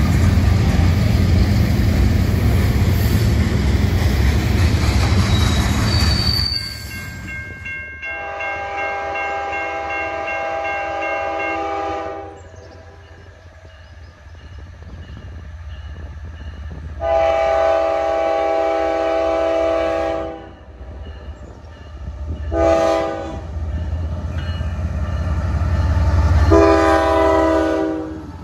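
Freight cars rolling past, a steady rumble with wheel clatter on the rails, which stops abruptly about six seconds in. Then an approaching CSX GE ES44AC-H diesel locomotive sounds its multi-note air horn in long, long, short, long blasts, the grade-crossing signal, while its engine and wheel rumble build as it nears.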